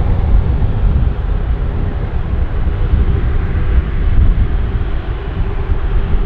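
Jet airliner's engines, a loud steady low rumble with a faint steady hum above it.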